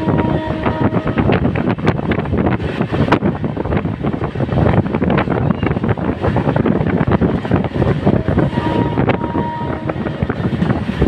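LHB passenger coach running at speed, heard from on board: a steady rumble of wheels on the track with many sharp clicks and rattles, and wind buffeting the microphone. A couple of brief faint squeals sound near the start and again about nine seconds in.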